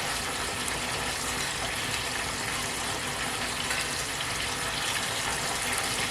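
Flour-dredged chicken wings frying in hot oil: a steady sizzle and crackle.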